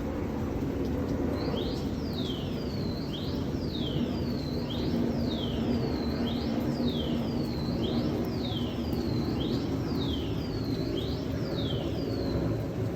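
Steady low rain noise. Over it, a high chirping call repeats about every second and a half, each a quick pair of falling swoops.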